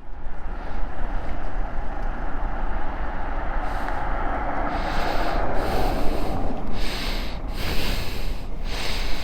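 Steady rush of wind over the microphone with a constant low rumble, joined by brief hissing gusts in the second half.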